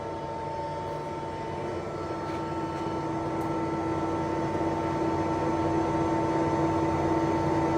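Summit engine lathe running with its spindle at low speed, a steady mechanical hum and whine. It grows gradually louder, and a lower tone comes in about three seconds in.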